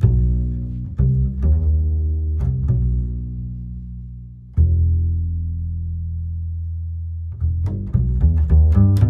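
Guitar music: low plucked notes left to ring and fade slowly, with a quicker run of several notes near the end.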